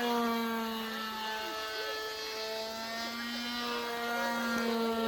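Engine of a radio-controlled model airplane running at a steady, buzzing pitch that sags slightly and comes back up.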